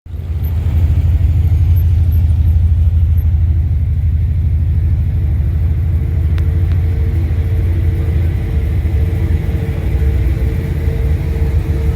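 Motor vehicle running with a steady, loud low rumble. A faint steady hum comes in about halfway through.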